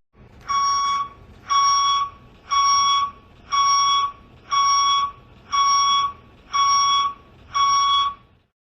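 Electronic alarm beeping: eight steady beeps of one pitch, about one a second, each lasting just over half a second.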